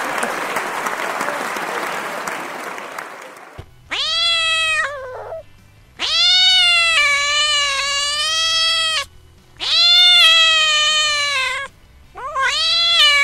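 Domestic cat meowing: four long, drawn-out meows, starting about four seconds in, the second one lasting about three seconds. Before them a hiss-like noise fades away.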